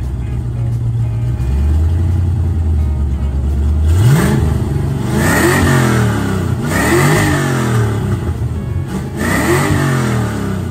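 A V8 car engine idles steadily, then is revved three times about four seconds in, each rev rising in pitch and falling back.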